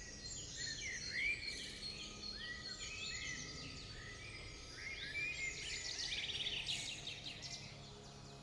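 Several small birds chirping and calling in short, overlapping, arched and rising notes, with a fast trill about six to seven seconds in, over a faint steady low hum.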